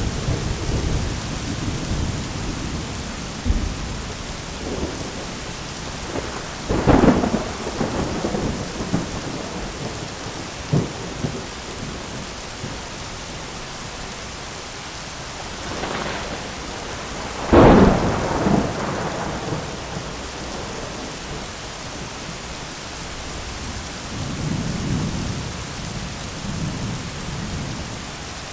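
Thunderstorm with steady rain hissing. Thunder rumbles low at the start, cracks sharply about a quarter of the way in, cracks again louder just past the middle, and rolls low near the end.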